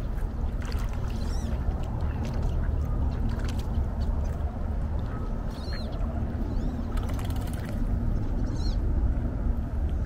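Short high bird calls, each a quick rise and fall in pitch, heard about a second in, around six and seven seconds, and near nine seconds, over a steady low rumble.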